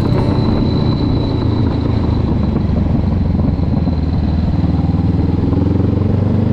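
Honda CB500X's parallel-twin engine and exhaust running steadily as the motorcycle is ridden along a road, with road and wind noise.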